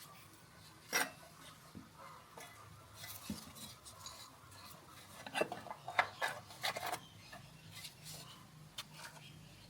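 Light metal clinks and taps of hand tools and small metal parts being handled, with a cluster of sharper clinks about five to seven seconds in, over a faint low hum.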